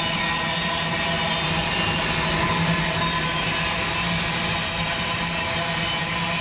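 Empty iron-ore freight train of hopper wagons rolling along the track, a steady rumble and rail noise with a faint hum in it.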